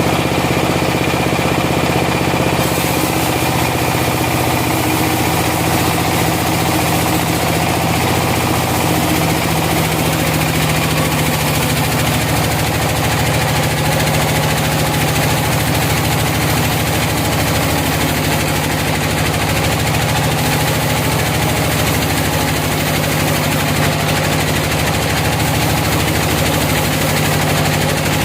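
Sawmill engine running steadily: a low, even engine hum under loud, continuous machine noise.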